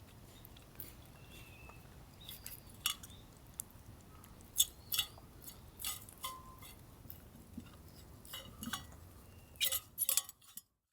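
Eating sounds: scattered small clicks and clinks of chewing and utensils, a few louder ones in the middle and near the end, stopping abruptly just before the end.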